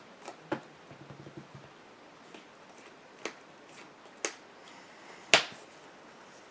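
Trading cards being handled and set down on a table: scattered light taps and clicks at irregular moments, the sharpest about five seconds in.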